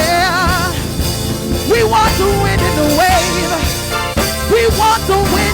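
Live gospel worship band playing steadily, with a held sung note wavering in vibrato at the start, then short sliding melodic phrases over the band.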